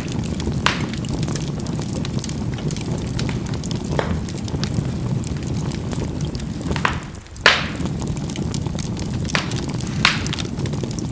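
Charcoal burning in a fireplace: a steady low rumble of flame with scattered sharp pops as the burning charcoal bursts, about six in all, the loudest about seven and a half seconds in.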